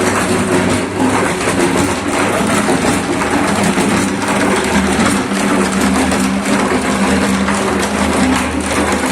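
Homemade concrete mixer running: a steady motor hum with a constant gritty, clattering rattle from the turning drum.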